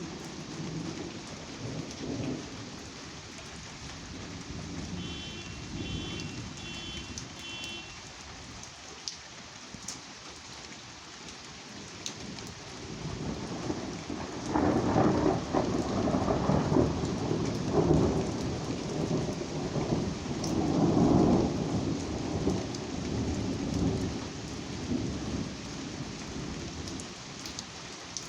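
Steady rain falling, with rolling thunder. A low rumble swells up about halfway through, comes in several surges, and fades away over the last few seconds.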